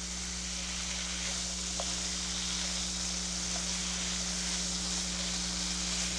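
Strips of beef and onions sizzling in butter in a hot frying pan: a steady frying hiss.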